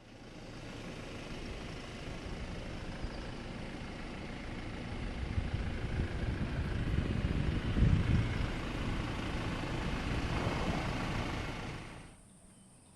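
A vehicle driving, a steady noisy rumble that swells toward the middle and cuts off suddenly near the end.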